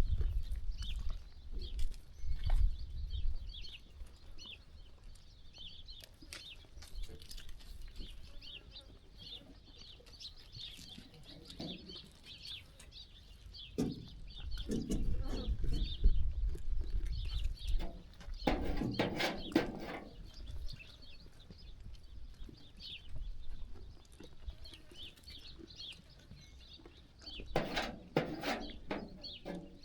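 Sheep bleating now and then, with a louder cluster of bleats about two-thirds of the way through and again near the end. Small birds chirp through the background over a low rumble.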